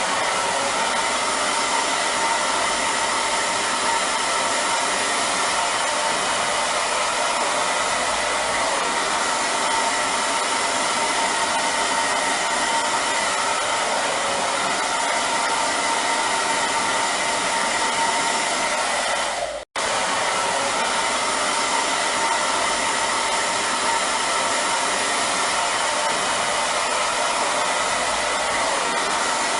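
Hair dryer running continuously: a steady, even blowing rush of air over the motor and fan, with a faint steady whine. It cuts out for an instant about twenty seconds in, then carries on unchanged.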